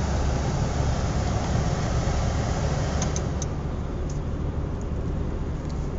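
Steady road and engine noise heard from inside a moving car: a low rumble with a hiss that softens a little about halfway, and a few faint ticks.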